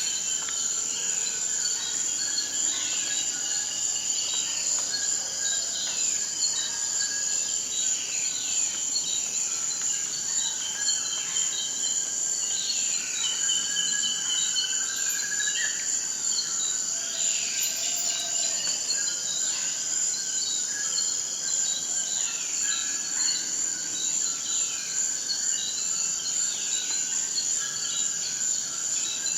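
Forest ambience: a steady high-pitched insect trill with many birds calling over it in short, falling notes.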